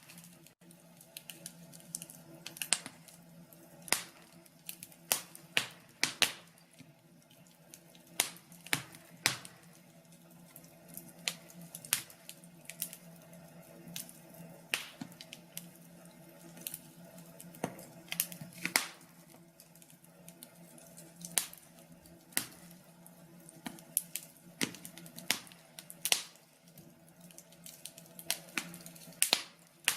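Wood fire in a fireplace crackling, with irregular sharp pops about once a second over a faint steady hum.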